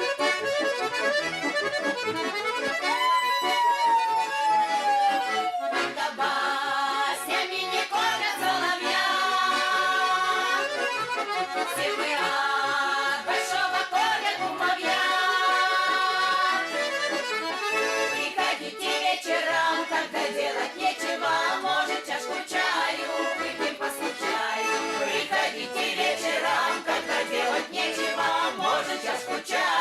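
Garmon (Russian button accordion) playing an instrumental interlude of a lively folk song, with steady rhythmic chords and melody.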